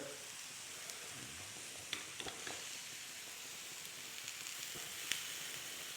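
Steady sizzling of food frying in a hot pan, with a few light clicks of a utensil.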